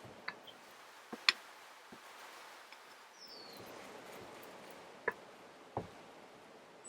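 Scattered light taps and knocks from handling dishes and utensils during food preparation: about five, the loudest about a second in. Faint outdoor background, with a bird's short high falling chirp midway.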